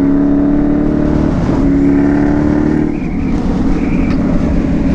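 Suzuki B-King's 1340 cc inline-four engine running under way with a loud, steady exhaust note. The note breaks briefly about a second and a half in and turns rougher and uneven from about three seconds in.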